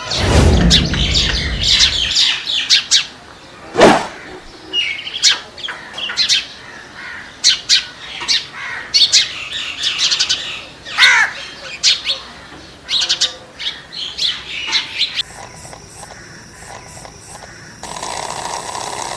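Small birds chirping in many short, high calls. A low rumble dies away in the first two seconds, and a single sharp knock comes about four seconds in.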